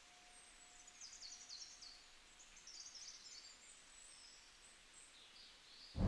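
Faint birds chirping: two short runs of quick high chirps, about a second in and again near three seconds, over a soft hiss. A faint steady tone stops about a second in.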